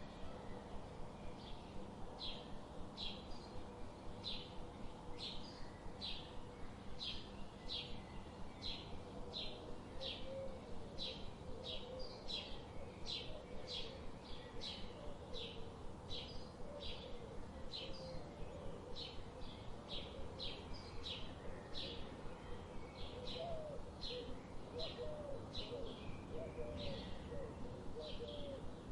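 A songbird repeating short high chirps, about two a second, without a break, over a faint steady hiss like a river. A lower warbling call comes in now and then, mostly in the middle and near the end.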